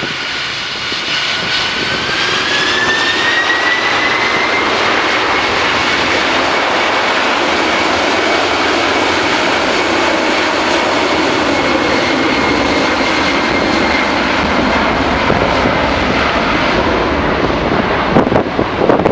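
Boeing 747-400F freighter's four jet engines running loud and steady, with a whine that rises over the first few seconds and then holds level, as the engines spool up to takeoff thrust. Gusts of wind hit the microphone near the end.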